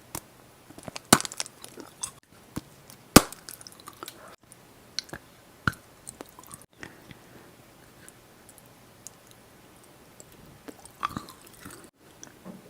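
Close-up chewing and biting of chocolate candy, with sharp crunches, the loudest about a second in and about three seconds in, and smaller crackles between. A quieter stretch past the middle gives way to another burst of crunching near the end.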